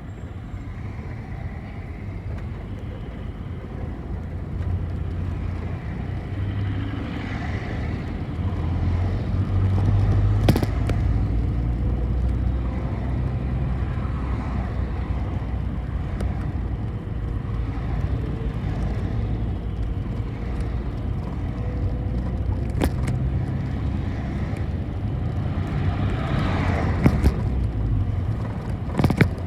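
City bus under way: a steady low engine and road rumble that grows louder about five seconds in as the bus picks up speed. A few short sharp clicks or rattles come through it.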